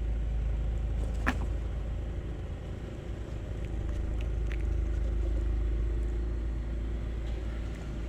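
A steady low rumble, with one sharp click about a second in and a couple of faint ticks near the middle.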